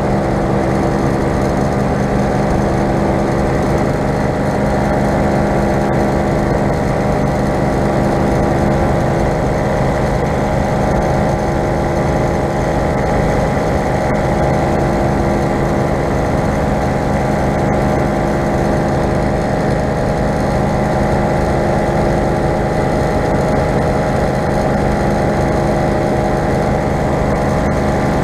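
Four-stroke paramotor engine and propeller of a powered paraglider running steadily in flight, holding one even pitch with no change in throttle.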